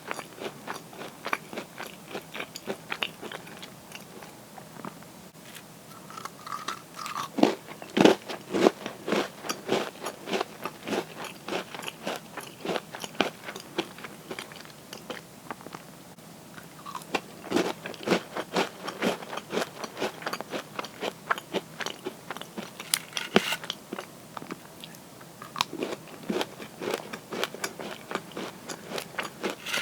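Crisp cookies being bitten and chewed close to the microphone: a steady run of crunchy chewing, with a few louder, sharper bites partway through.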